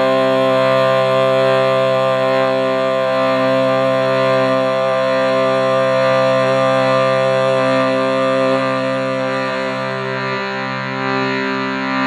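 A steady, sustained musical drone: one held chord, rich in overtones, with no break, easing slightly about two thirds of the way through.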